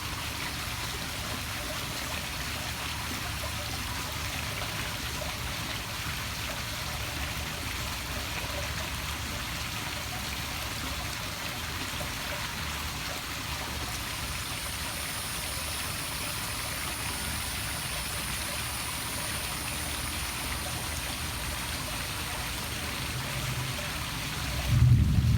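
Poolside waterfall splashing steadily into the pool. A faint high whine comes in about halfway through, and just before the end a much louder low rumble starts.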